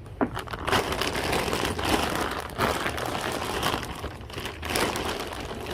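Bags and packaging rustling and crinkling in irregular bursts, with sharp crackles, as items are dug out of a storage-unit box.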